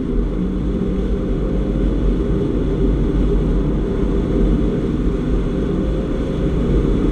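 A Porsche Boxster's flat-six engine running hard at speed, heard from inside the cabin with heavy wind and road noise, making a steady low drone.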